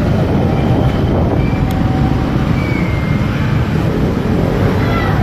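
Motorcycle on the move: a steady low rumble of engine and road noise.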